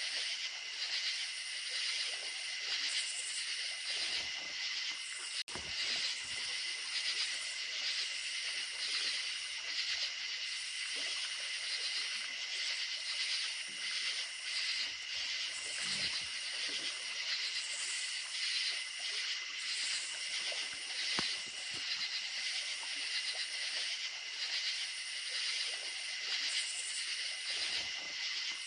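A dense chorus of crickets chirping steadily at night, with a faint rush of running creek water beneath. The sound drops out briefly about five seconds in.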